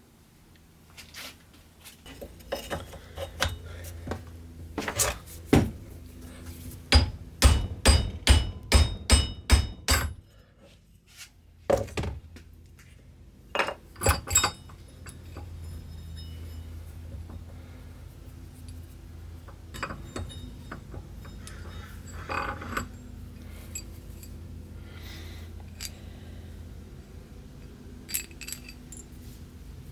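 Metal tools clinking and knocking, with a run of about seven hammer blows on metal, roughly two a second, in the first half and a few more single knocks after. A low steady hum runs underneath.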